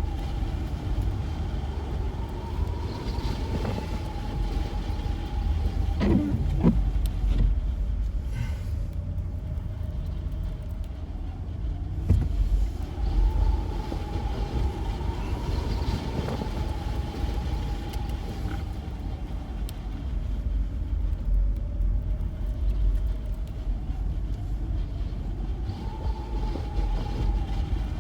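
Lexus GX 470 with its 4.7-litre V8 driving slowly in low range with the rear differential locked, heard from inside the cabin: a steady low rumble, with a whining tone that swells up and fades away about every twelve seconds.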